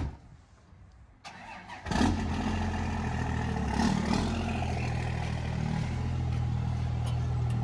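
Truck engine cranking briefly, catching about two seconds in, and then idling steadily.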